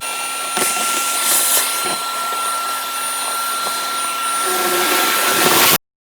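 A small electric motor running steadily with a loud airy hiss and a faint high whine, stopping abruptly near the end.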